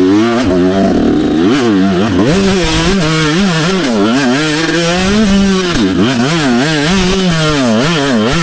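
125 dirt bike engine revving up and down over and over as the throttle is worked hard on and off, the pitch swinging roughly once a second.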